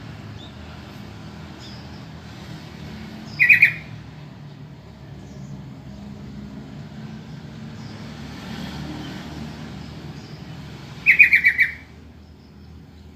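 Sooty-headed bulbul (trucukan) calling: a short burst of quick notes about three and a half seconds in, then a longer run of about five rapid notes near the end, over a steady low background rumble.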